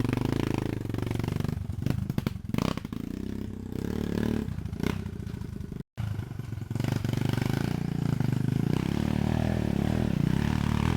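Dirt bike engine running with some clattering, its pitch shifting a little. The sound cuts out for an instant about six seconds in.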